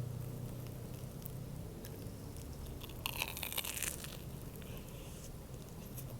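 Close-miked eating of an egg sandwich: a bite with a short burst of crunching about three seconds in, with chewing around it.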